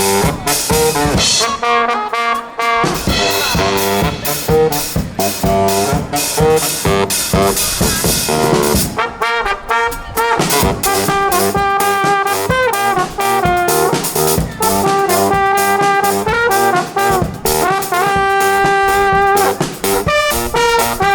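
Brass band with a drum kit playing live: the horns hold long notes over a steady drumbeat.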